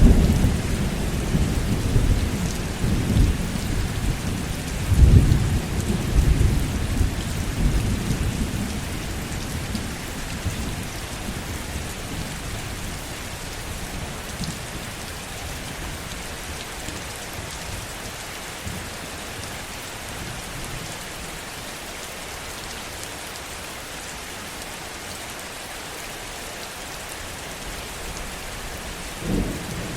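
Steady heavy rain with rolling thunder: a deep rumble at the start swells again about five seconds in and dies away over the next few seconds, leaving the rain alone, until another rumble begins near the end.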